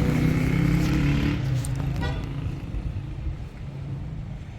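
A motor vehicle's engine running with a steady hum that breaks up and fades away after about a second and a half.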